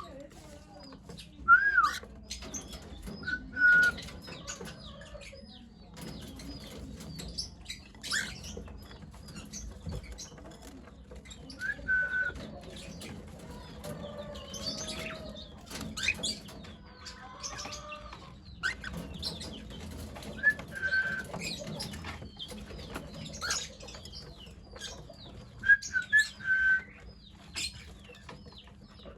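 Pet cockatiels chirping: several loud short whistled calls spread through, over many faint high chirps, with scattered clicks and rustles.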